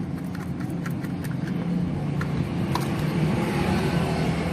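A steady low engine-like hum runs in the background, with several light clicks in the first few seconds.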